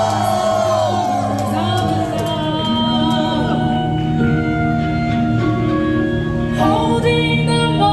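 Symphonic metal band playing live in a hall: held keyboard chords with singing over them.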